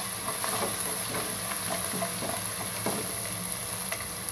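Freshly crushed ginger-garlic paste sizzling steadily in hot oil in a black pot, stirred with a plastic spatula.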